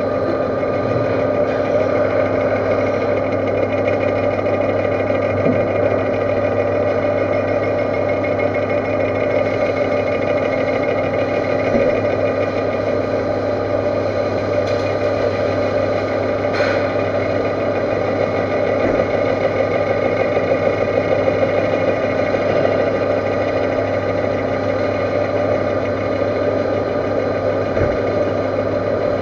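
Metal-turning lathe running steadily, a constant machine hum with a few faint ticks.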